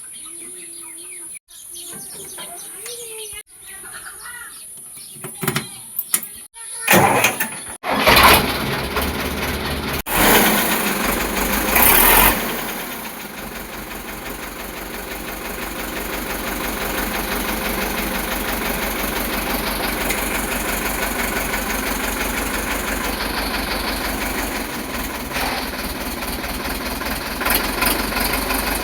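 Sonalika DI 750 tractor's diesel engine starting up about a third of the way in, running loud and unevenly for a few seconds, then settling into a steady idle.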